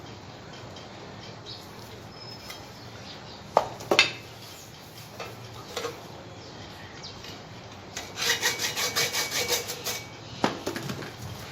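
Quick back-and-forth scrubbing strokes, about six a second for roughly two seconds near the end, on the corroded compass being restored. A few sharp knocks come before and after.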